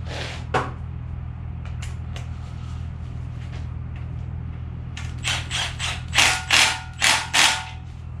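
Cordless impact wrench run in about seven short bursts on a low setting, running engine bolts down, after a few clicks of the tool being handled. A steady low hum sits underneath.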